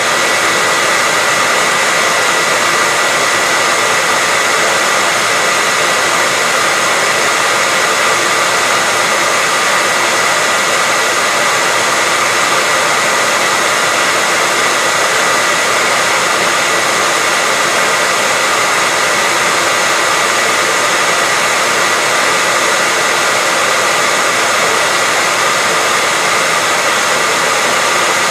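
Hair dryer running steadily: a continuous rush of blown air with a steady high-pitched whine through it, unchanging throughout.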